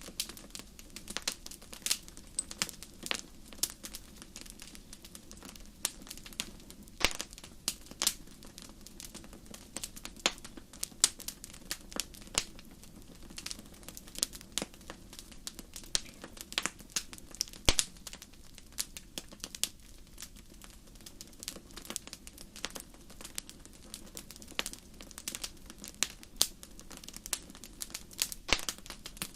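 Wood fire crackling in a fireplace: irregular sharp pops and snaps, several a second, with an occasional louder pop, over a faint steady low hum.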